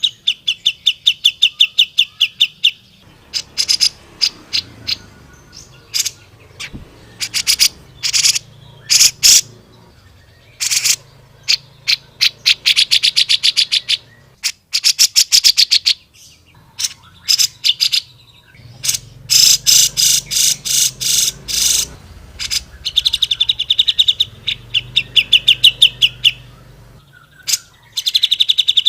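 Cucak jenggot (grey-cheeked bulbul) singing loudly in bursts of very fast, high chattering trills lasting one to three seconds, with single sharp notes between the bursts.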